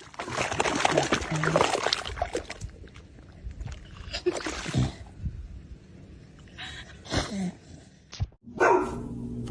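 A dog's sounds, mixed with the noise of movement. The sound drops out briefly near the end before a different sound begins.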